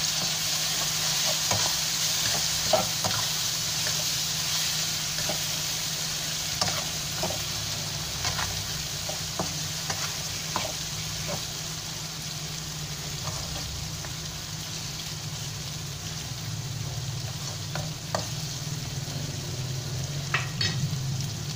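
Chilli sambal with fried beef and boiled eggs sizzling in a frying pan while a spatula stirs it, with scattered knocks and scrapes of the spatula against the pan.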